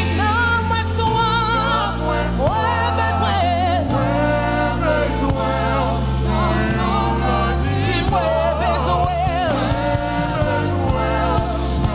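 Gospel praise-and-worship music: a singer with backing vocals singing over a band with bass and drums.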